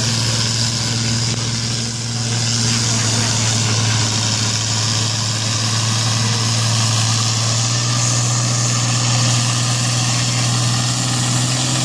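Pulling tractor's engine running steadily at a constant pitch, the note edging slightly higher about eight seconds in.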